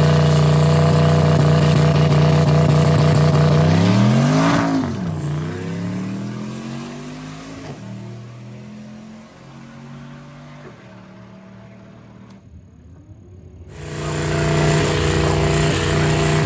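Turbocharged LS V8 of a Chevrolet Malibu wagon held at steady revs on the drag-strip starting line, then launching about four seconds in: the pitch climbs, drops at a gear change and climbs again as the car pulls away and fades into the distance. Near the end, after a short break, a loud engine is held at steady revs again.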